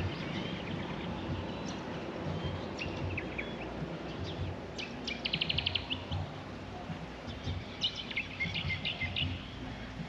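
Birds calling outdoors over a steady low background noise: scattered chirps, a fast trill of about ten quick notes a second around five seconds in, and a burst of chirps towards the end.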